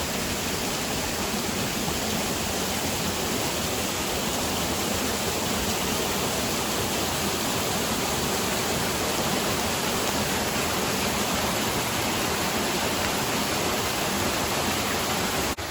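Waterfall on Double Run, water pouring down in a steady, loud rush, dropping suddenly to a softer rush just before the end.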